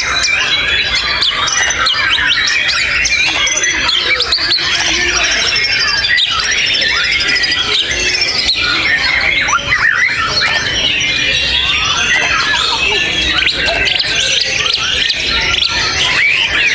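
White-rumped shama (murai batu) singing without a break: a rapid, varied stream of whistles, trills and sharp rising and falling notes.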